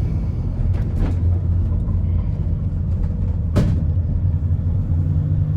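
VW Caddy's tuned 1.9 TDI PD130 diesel and road noise, heard from inside the van as it drives at a fairly steady engine speed. A sharp knock sounds about three and a half seconds in.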